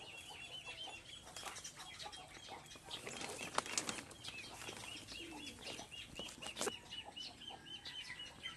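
A small bird chirping steadily in a fast, even series of short high notes, about three a second. Rustling and light clicks come and go over it, loudest a little past the middle.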